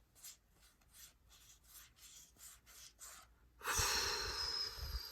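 Trading cards being slid through the hand, as faint soft swishes about three a second. About three and a half seconds in comes a second or so of loud crinkling from a foil booster-pack wrapper being handled.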